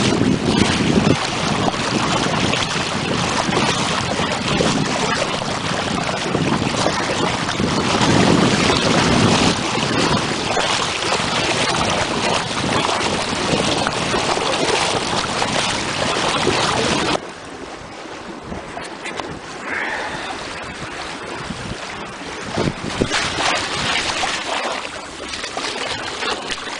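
Wind buffeting the microphone over water rushing and splashing past a sailboat under way. About 17 seconds in, the sound drops abruptly to a quieter, thinner wash of wind and water.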